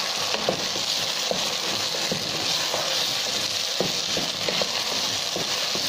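Diced potatoes and onion sizzling in hot oil in a pan as they are stirred with a wooden spoon: a steady hiss with many small scrapes and taps against the pan.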